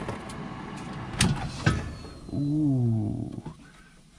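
Air fryer running with a steady fan hiss, then two sharp clicks about a second in as its basket drawer is pulled open. The fan noise dies away shortly after.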